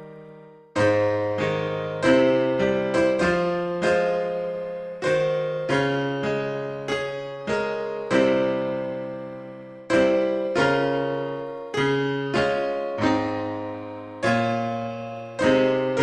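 Slow solo piano music: struck chords that ring and fade, played one after another.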